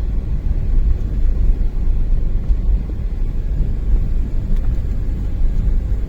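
Steady low rumble of a road vehicle on the move, engine and road noise.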